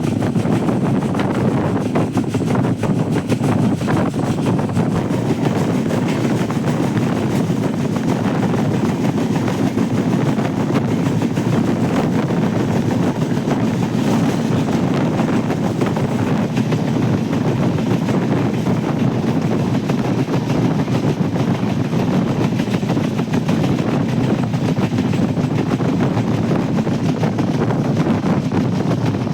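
Steady rumble of a moving passenger train running along the track, with wind noise.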